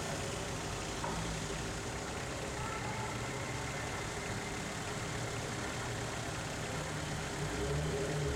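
Old cars' engines running at slow parade speed, with a black Peugeot 203 rolling up and passing close by. The sound grows a little louder near the end as it comes alongside.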